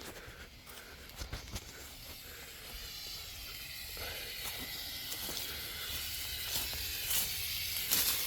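Garden hose spraying water onto an air conditioner's outdoor condenser coil: a steady hiss that grows gradually louder from about three seconds in. A few light knocks in the first two seconds.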